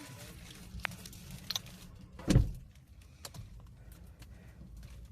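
A car door, likely the new Tata Punch's, shutting with one heavy thud about two seconds in, with a few small clicks before it as people settle into the car.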